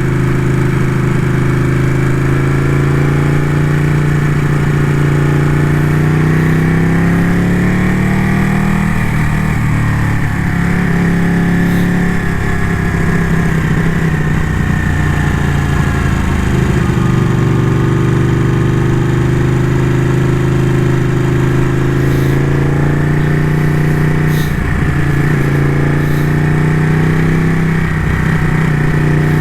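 Ducati motorcycle engine running under way, its note rising and falling with the throttle, with a few brief dips in pitch.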